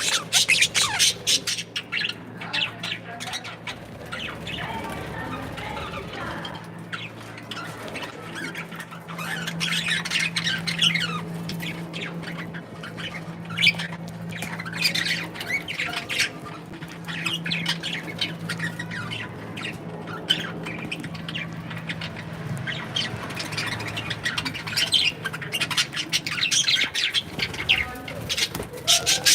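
Budgies and cockatiels chattering and squawking: a busy, continuous stream of short high calls that swells and fades in waves, loudest at the start and again in the middle and near the end. A low steady hum runs underneath for much of the middle.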